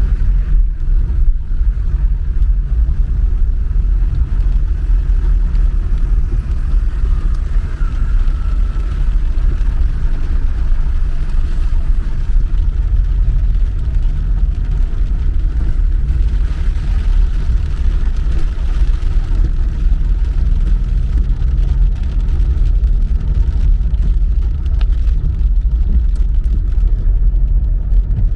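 A car on the move: a steady low rumble of engine and road noise with no sharp events.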